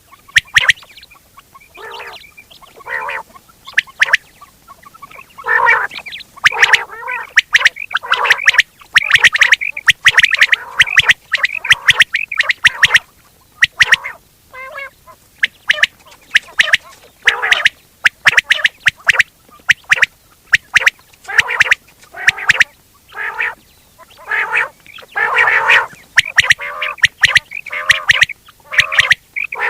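Quail calling over and over: harsh, rasping calls in quick runs, mixed with sharp clicking notes.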